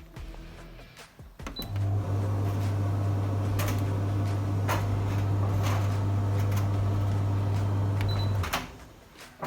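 Beko DTGV7000W condenser tumble dryer running: its motor and drum give a loud, steady hum with a few clicks, starting about two seconds in and stopping about a second before the end. A short high beep sounds just as it starts and again just before it stops.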